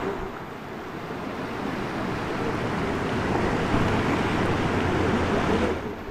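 Rushing river water around a raft, a steady wash that builds through the middle and drops off suddenly near the end.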